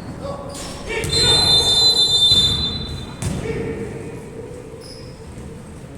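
Sounds of a game in a large room: voices, a high steady tone lasting over a second from about a second in, then a sharp thud about three seconds in.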